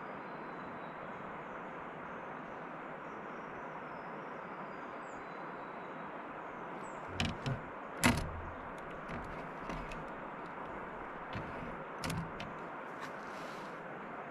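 Steady rushing of river water, with a few sharp knocks and clicks about seven seconds in, the loudest about eight seconds in, and a couple more near twelve seconds in.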